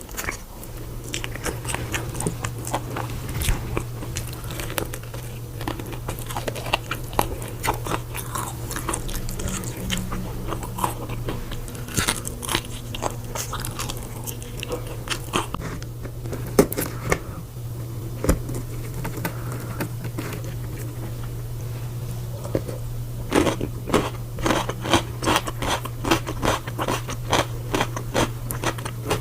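Crunchy food bitten and chewed close to the microphone: many irregular crisp crunches and crackles, with a steady low hum underneath.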